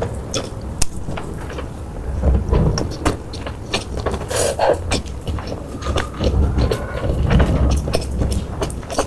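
Close-miked eating: chewing with many sharp clicks and crunches, over a low rumble.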